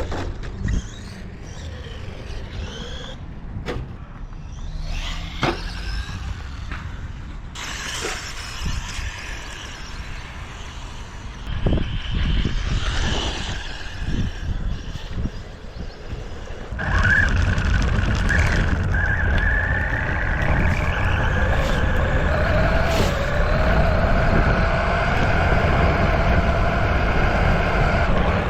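1/12-scale RC short course truck driving, its electric motor whining over rattles, bumps and tyre noise in uneven spurts. From about two-thirds of the way through, a steadier, louder motor whine holds and slowly rises in pitch as the truck runs.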